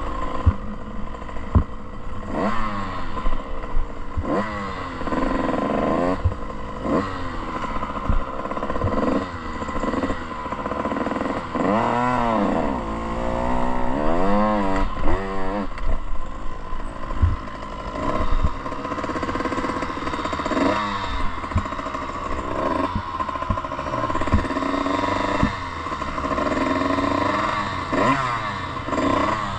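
Off-road motocross bike engine revving up and falling back over and over as the rider works the throttle and gears, with scattered sharp thumps from riding over rough ground.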